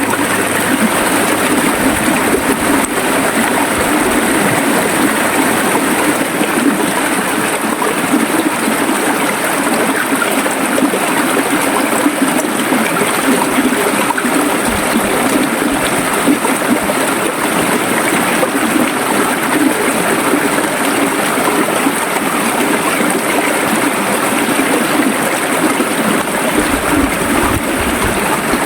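River water flowing and gurgling over rocks, a steady rushing burble.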